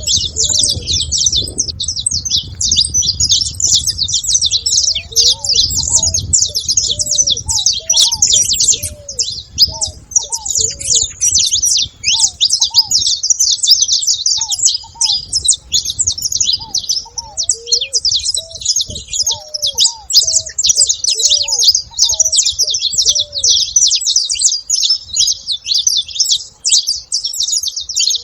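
A group of saffron finches chirping together in a dense, continuous, overlapping chatter of high notes. Beneath it, a lower short call repeats about once a second.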